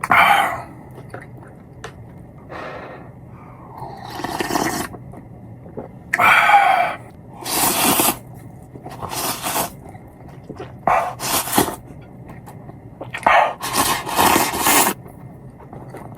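Person slurping instant ramen noodles up close, in a string of loud, airy slurps, each about half a second to a second long, with short pauses between.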